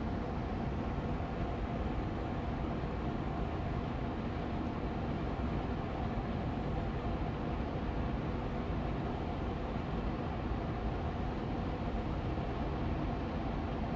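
Air purifier fan running steadily on medium speed: an even rushing hum of moving air with a faint steady motor tone.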